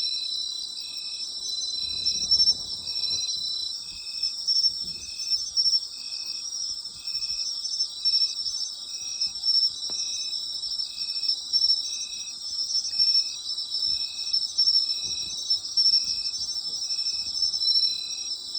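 Autumn night chorus of crickets and other insects: a dense, high, continuous chirring. Under it, one insect repeats a short, lower note at a steady rhythm of about once a second.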